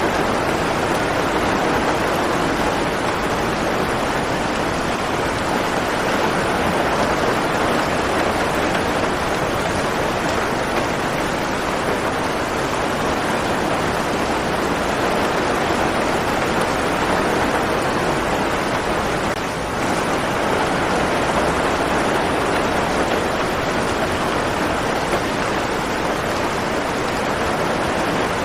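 Steady rain falling, a dense even hiss that dips briefly about two-thirds through.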